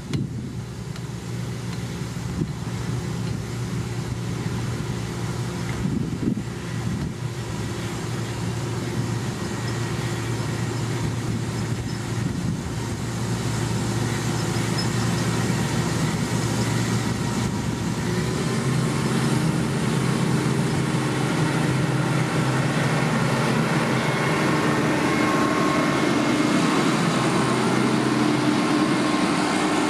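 Engine of a heavy road-construction machine running steadily under load, growing louder over the first half, with a small step up in pitch about two-thirds of the way through.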